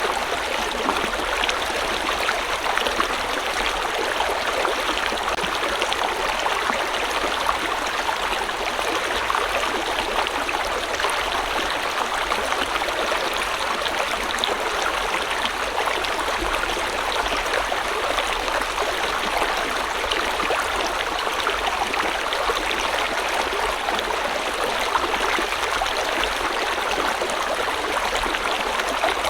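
A river or stream flowing steadily over rocks, a constant rushing with fine bubbling and splashing detail and no change in level.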